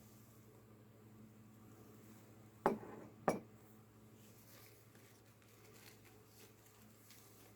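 Two sharp clicks, about half a second apart, over a faint steady low hum.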